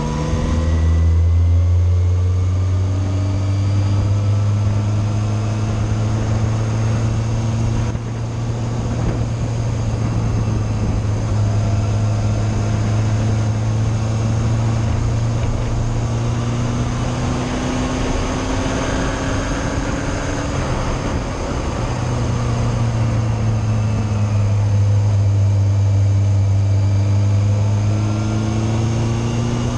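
Yamaha Fazer motorcycle engine running under way with wind rush, its pitch slowly rising and falling with the throttle; a brief drop in level about eight seconds in.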